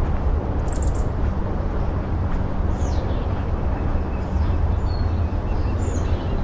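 Several short, high-pitched bird chirps and whistles, including a quick run of four notes about a second in and a falling whistle about three seconds in, over a steady low rumble.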